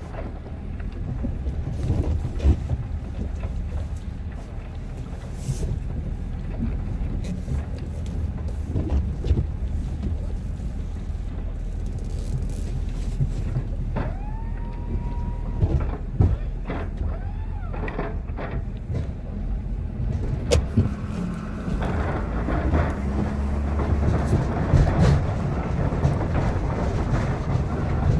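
Ford F-250 6.7L Powerstroke diesel pickup running steadily while plowing snow. Around the middle come a few short whines that rise, hold and fall away, and the truck gets louder and noisier near the end.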